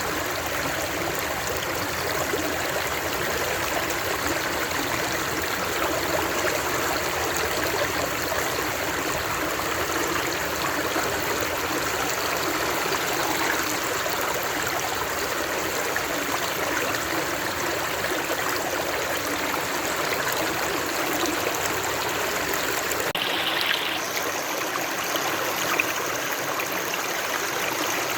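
Steady rushing of a flowing stream. About 23 seconds in its deepest part drops away and the sound changes slightly.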